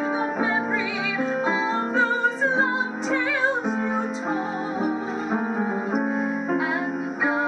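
Piano accompanying a woman singing a slow vaudeville ballad, her held notes wavering with vibrato.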